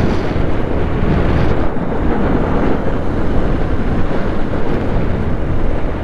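Wind rumbling across the microphone while riding, over the steady running of a Honda Shine 125 motorcycle's single-cylinder four-stroke engine.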